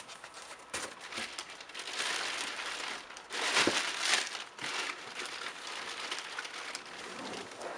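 Cardboard and foam packaging rustling and crinkling as it is handled, louder for about a second around three and a half seconds in.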